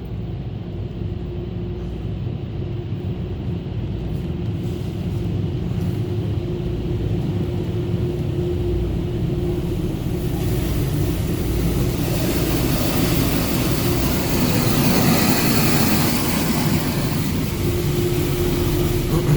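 Inside a car cabin in a touchless car wash bay: the low steady rumble of the idling vehicle, joined about halfway through by a hiss of water spray that swells and then fades near the end.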